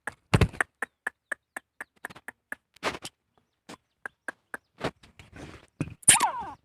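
A francolin (teetar) giving a run of short clucking notes, about four a second, with a thump about half a second in and a louder call with falling pitch near the end.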